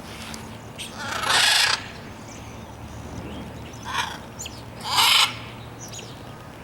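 Caged exotic birds calling: two loud, harsh squawks, the first about a second in and the second about five seconds in, with a shorter call and scattered chirps between them.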